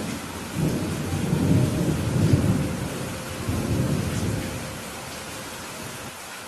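Steady rain with a rolling thunder rumble that swells in several waves, loudest about two seconds in, and dies away after about four seconds.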